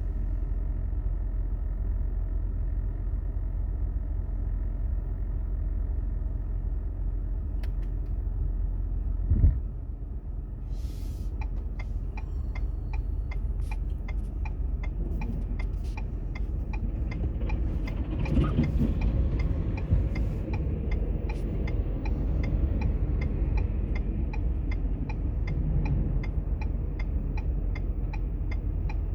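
Steady low rumble of a car's engine and tyres heard inside the cabin, with a single thump about nine seconds in. From about eleven seconds on, a turn-signal indicator ticks steadily.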